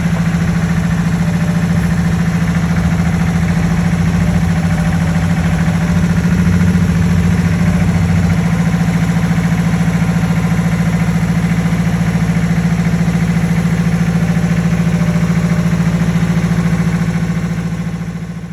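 A vehicle engine running at a steady speed with a constant low hum. It fades out near the end.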